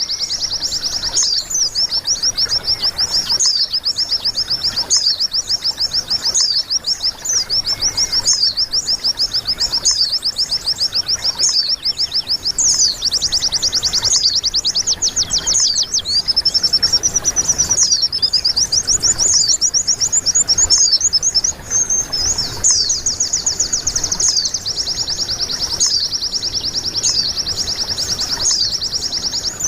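White-eye (pleci) singing a long, fast, unbroken song of rapid high chirps and trills.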